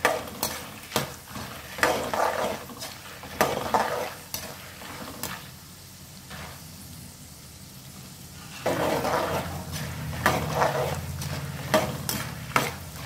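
A spatula stirs peanuts, roasted gram and dried red chillies frying in oil in a kadai, scraping against the pan in a run of strokes over a low sizzle. The stirring stops for a few seconds midway, then the sizzle grows louder and a few more scrapes follow near the end.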